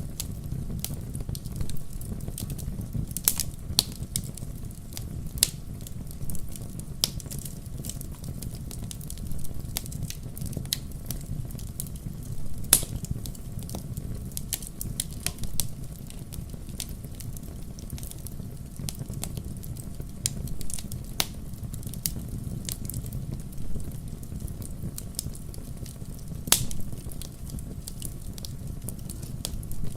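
Wood fire burning in a fireplace: a steady low rumble of flames with irregular sharp crackles and pops from the logs, a few louder pops standing out.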